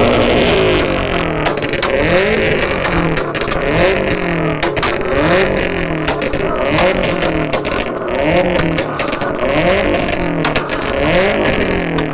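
Car engine revved hard again and again, roughly once a second, each rev a quick rise and fall in pitch through a loud exhaust.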